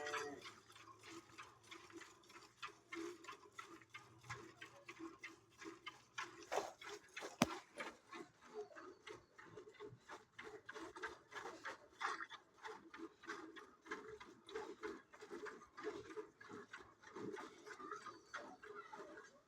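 A cow chewing and crunching feed up close, with a steady run of crunches, several a second.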